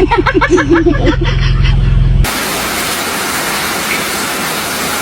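A voice with quickly changing pitch over a steady low bass, cut off about two seconds in by a steady, even hiss.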